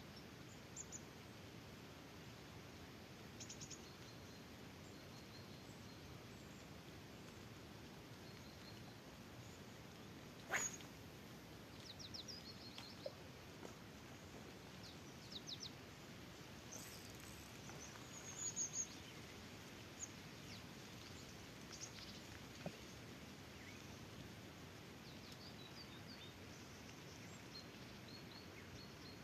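Faint outdoor hiss with short, high bird chirps and trills scattered throughout, and one sharp click about ten seconds in.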